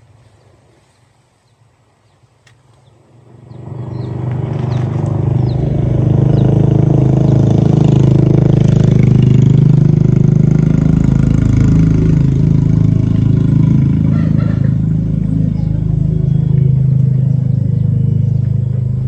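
An engine comes in about three and a half seconds in, rising quickly, then runs loud and steady.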